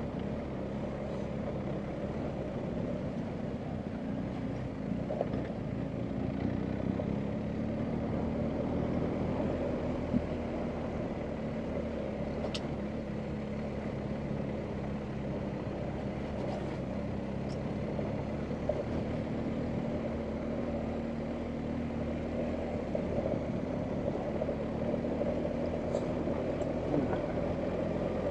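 BMW R1250GS Adventure's boxer-twin engine running at steady, fairly low revs while the bike is ridden along an off-road track, with a few sharp clicks now and then.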